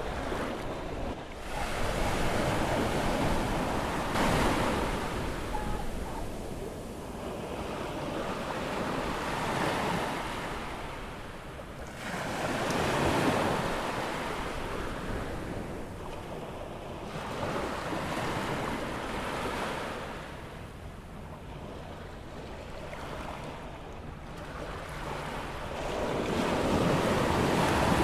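Atlantic surf breaking and washing up the beach on an incoming tide, the sound swelling and fading with each wave every few seconds, with some wind on the microphone.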